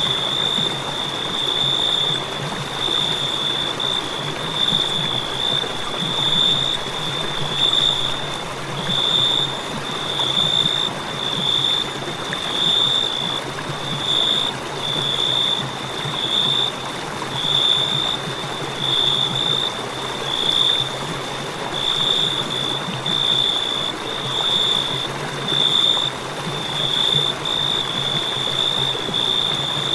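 Crickets chirping in a continuous high trill that swells in regular pulses about once a second, over a soft steady hiss.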